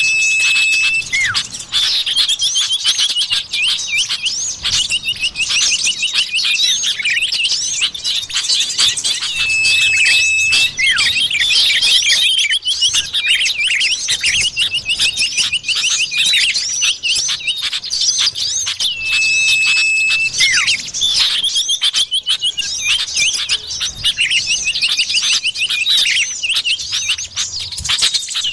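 Bird-lure recording of common iora (cipoh) calls: a dense, busy twittering of high chirps and trills, with a long, level whistle that comes back about every nine to ten seconds as the recording loops.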